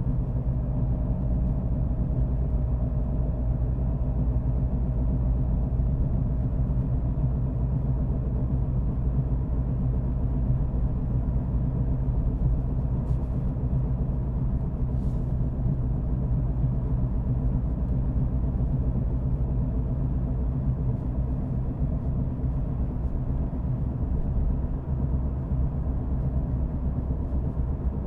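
A car driving at a steady pace: a low, even rumble of engine and road noise. Two faint clicks come about halfway through.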